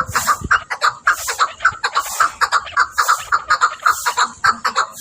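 Chukar partridge calling: a continuous run of short, repeated clucking 'chuck' notes, about four a second.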